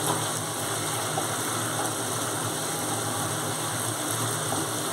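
Spice paste frying in a kadai, a steady sizzle, as a wooden spatula stirs it, with a few faint scrapes; a steady low hum runs underneath.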